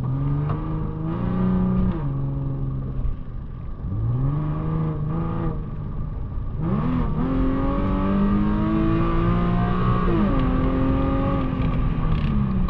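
Infiniti G37's 3.7-litre VQ37VHR V6 with straight-through exhaust (muffler and resonator deleted) as the car is driven: revs rise briefly about four seconds in, then climb sharply around seven seconds under acceleration, hold, and fall away around ten seconds when the throttle is lifted.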